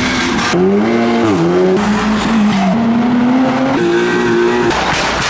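Car engine revving hard, its pitch dipping and climbing several times, over a loud rushing noise.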